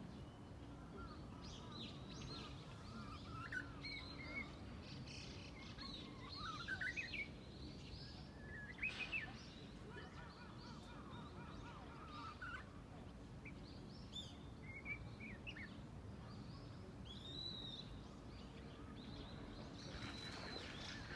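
Japanese bush warbler (uguisu) singing halting, broken practice phrases instead of a full 'hō-hokekyo', with short whistled sweeps and chirps scattered at irregular intervals; the unsteady song is that of a bird still practising.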